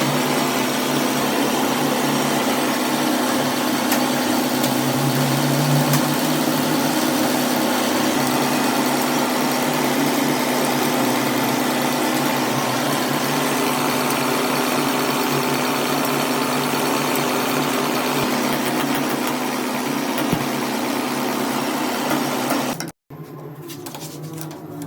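Truck diesel engine running steadily at idle, a dense even noise with a constant hum. It cuts off abruptly near the end, leaving a much quieter sound.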